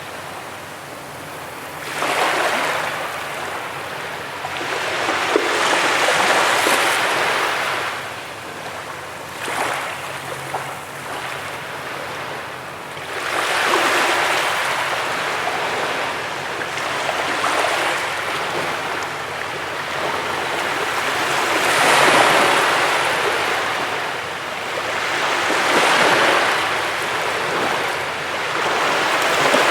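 Sea waves breaking on a beach, the surf swelling and washing up again every few seconds.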